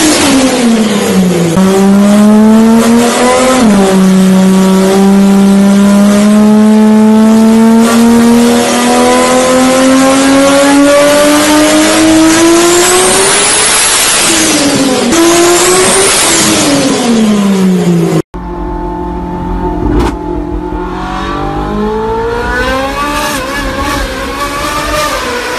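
Loud car exhaust of an engine accelerating hard, its pitch climbing slowly and then dropping sharply at each gear change. After a sudden cut about two-thirds in, a quieter second car engine with a single knock, its revs rising again near the end.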